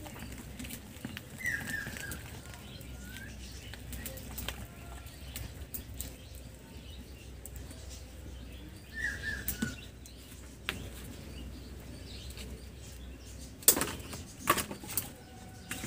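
A bird gives two short, falling chirps several seconds apart over a low steady background rumble; a few sharp knocks come near the end.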